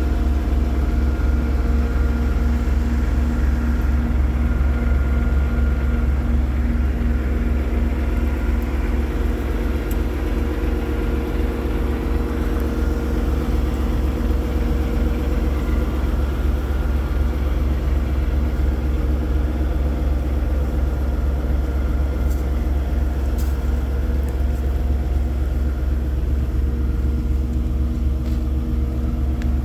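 Paccar 510 hp diesel engine of a Peterbilt 389 truck tractor idling steadily.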